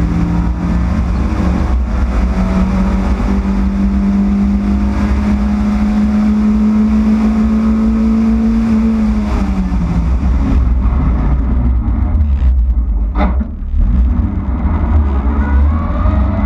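Yugo race car engine heard from on board, holding steady revs, then easing off about ten seconds in and climbing in pitch again near the end as it accelerates. A short sharp pop comes about thirteen seconds in.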